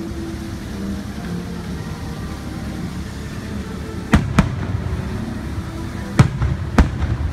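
Aerial firework shells bursting overhead: two sharp bangs close together about four seconds in and two more near the end, over a steady low background rumble.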